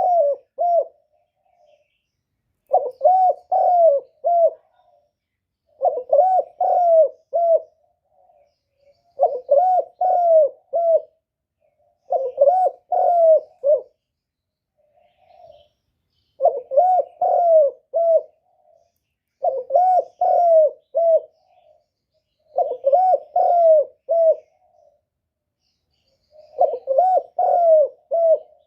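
Spotted dove cooing: repeated phrases of four or five rising-and-falling coos, one phrase every three seconds or so with soft single notes between, and a longer pause about halfway through. This is the 'gù' coo used as a lure call to excite wild doves and draw them to a trap.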